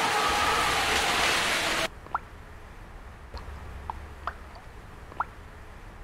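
A loud, steady rushing noise, like rain, cuts off abruptly just under two seconds in. It is followed by short, sharp bird chirps, about one a second, over a faint low hum.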